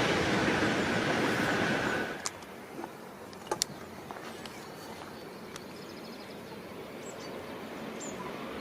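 The rumble of a train passing on the line, which cuts off abruptly about two seconds in as the last of it goes by, leaving quiet outdoor background with a few short sharp clicks. Noise begins to build again near the end.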